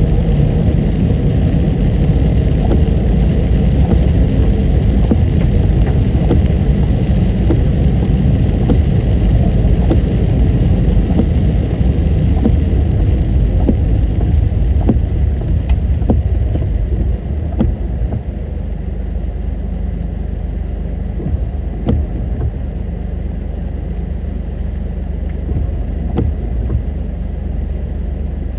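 A car driving, with a steady low rumble of engine and road noise. It eases slightly about two-thirds of the way through.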